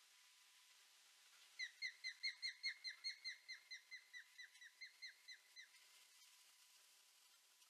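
Osprey calling: a run of about nineteen short whistled notes, each sliding down in pitch, about four or five a second. It starts about a second and a half in and fades away over four seconds.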